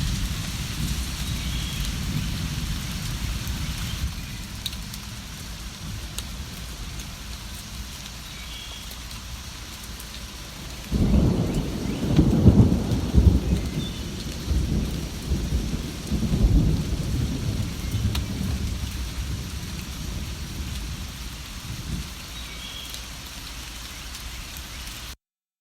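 Steady rain with a low background rumble, and a long roll of thunder that breaks in about eleven seconds in and rumbles on for several seconds before fading back into the rain. The sound cuts out completely for under a second near the end.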